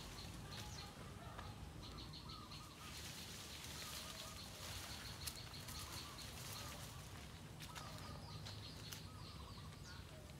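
Faint birds chirping and calling, over a steady low outdoor background.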